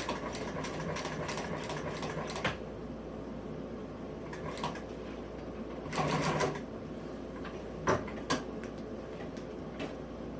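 Sewing machine stitching in quick runs, sewing the interior upholstery: a run for the first two and a half seconds and a shorter one about six seconds in, with two sharp clicks near the end.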